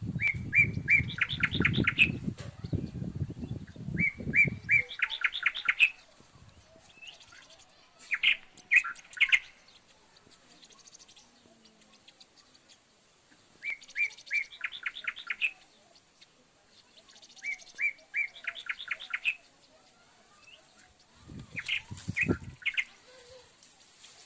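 A small bird calling in repeated bursts, about six of them a few seconds apart, each a few short chirps running into a fast rattling trill. A low rumble sits under the first few seconds and briefly returns near the end.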